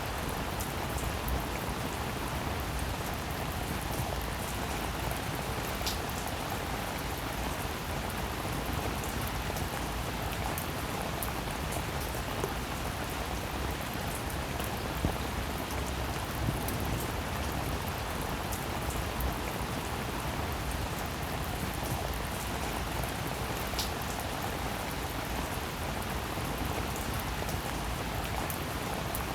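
Steady rain falling, an even hiss with occasional individual drops ticking louder.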